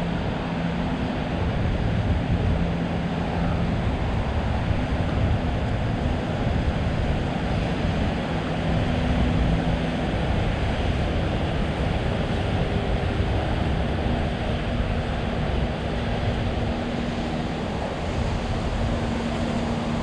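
Steady city street ambience: a continuous roar of traffic, with low engine hums that come and go.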